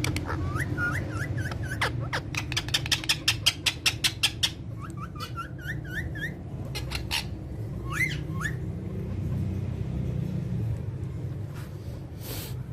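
A parrot calling: two runs of short, rising chirps with a quick series of clicks, about six a second, between them, then a few scattered clicks and calls over a steady low hum.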